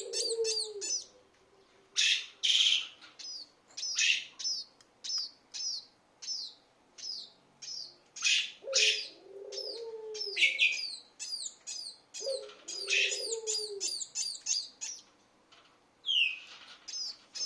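Small birds chirping repeatedly in quick runs of short, high, falling notes. A lower, longer call comes in near the start, about halfway through and again a few seconds later.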